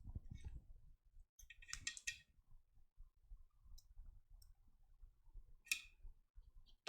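Near silence with a few faint clicks: a small cluster about two seconds in and a single sharper click near the end.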